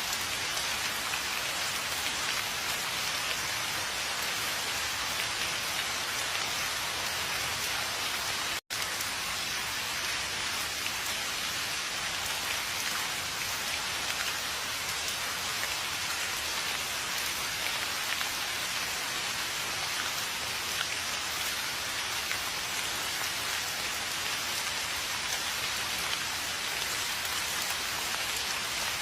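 Steady rain falling, with an even hiss of drops that cuts out for an instant about nine seconds in.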